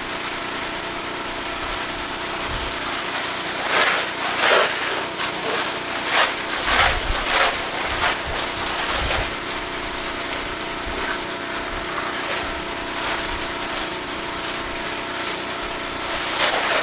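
Pressure washer engine running steadily, with the water spray hissing in uneven bursts from about four to nine seconds in and growing loud again near the end.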